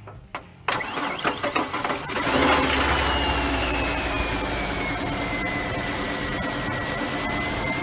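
A car's starter motor with worn brushes, knocked on so that it engages, cranks the engine in uneven pulses after a few light taps. About two seconds in the engine catches and settles into a steady fast idle, with a whine that slowly falls in pitch.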